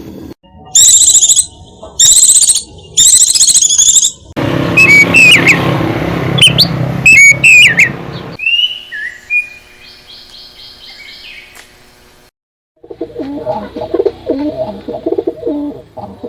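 Calls of several different songbirds played one after another in short cut clips: three loud, high, buzzy calls, then chirping notes over a rushing background, then a quieter trill, and near the end a run of lower, choppier calls.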